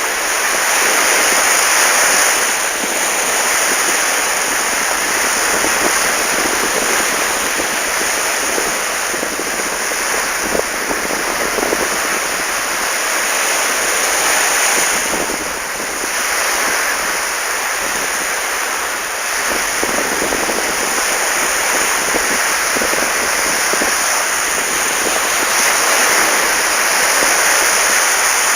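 Sea waves breaking and washing up the beach in a continuous hiss that swells and eases every few seconds, with wind buffeting the microphone.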